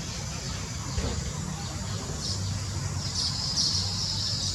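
Bird chirping in high short calls, briefly about two seconds in and then more steadily near the end, over a steady low hum. A single click about a second in.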